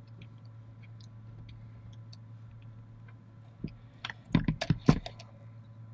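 Small clicks and taps of wire and tools being handled on the workbench, with a cluster of louder knocks about four to five seconds in, over a steady low hum.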